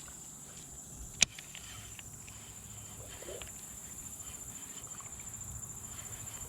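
Steady high-pitched insect drone, with one sharp click about a second in and a few faint ticks.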